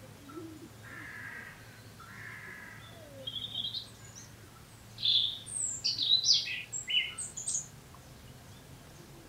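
A songbird singing a quick run of short, high, sweeping notes, loudest from about five to eight seconds in, after a few quieter calls earlier.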